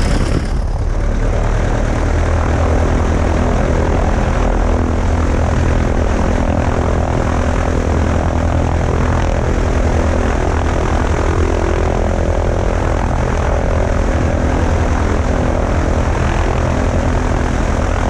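A 1961 light airplane's piston engine running steadily, with its propeller turning, moments after catching from a hand-propped start. The battery is dead and the engine is cold.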